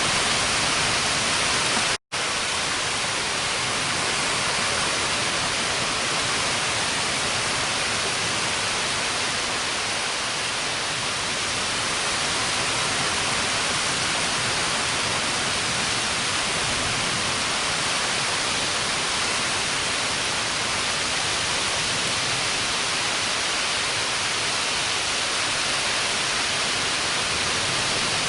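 Heavy rain pouring down in a steady hiss. The sound cuts out for a split second about two seconds in.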